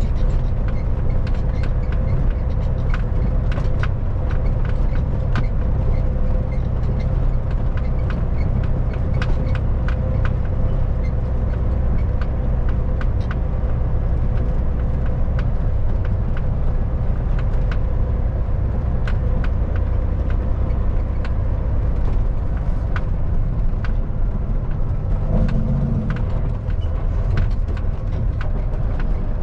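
Kenworth W900 semi truck's diesel engine running steadily under way, a deep continuous drone with frequent small rattles and clicks.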